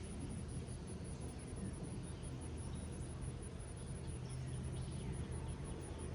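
Steady summer rain falling over an open meadow, with a low rumble underneath. An insect keeps up a high, even pulsing chirp, about four pulses a second.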